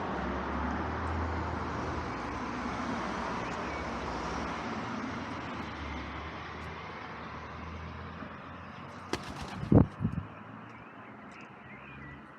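Road traffic going by outside, a steady rumble that slowly fades. A few sharp knocks about nine to ten seconds in.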